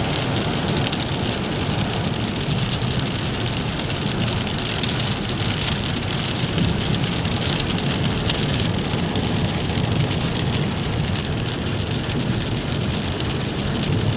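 Steady rain falling on a moving car, with road and tyre noise underneath.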